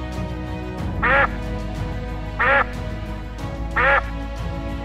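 A duck quacking three times, single short quacks evenly spaced about a second and a half apart, over background music.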